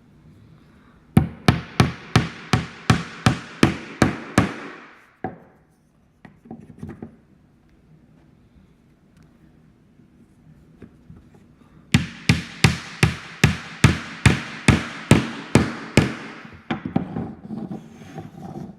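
Hammer driving nails into the pieces of a small wooden model kit: two runs of quick, even blows, about three a second, with a pause of several seconds between them.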